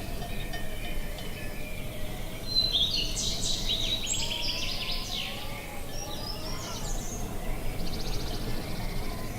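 Songbirds singing over a steady low rumble of outdoor wind noise. A busy burst of chirping song comes a couple of seconds in, and a short rapid trill follows near the end.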